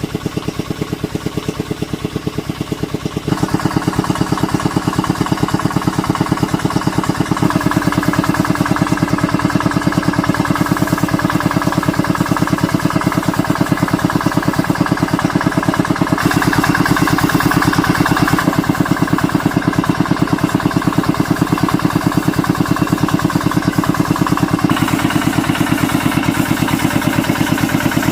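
A small engine running steadily with a fast, even firing beat. Its tone shifts slightly several times.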